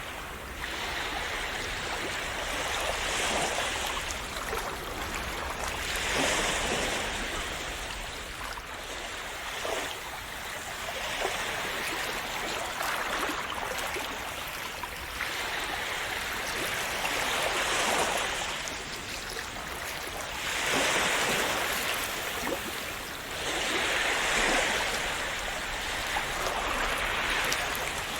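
Calm sea waves splashing and washing in, the rush of water swelling and easing every few seconds.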